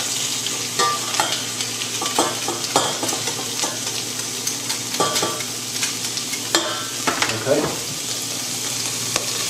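Steady frying sizzle of onion, green pepper and garlic in olive oil in a saucepan, with scattered light metal clicks and scrapes from a garlic press and a knife scraping crushed garlic off it.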